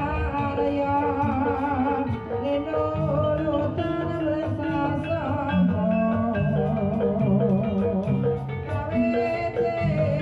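Javanese gamelan music accompanying a kuda kepang dance, sung over with a voice that wavers on long held notes above steady, ringing instrument tones.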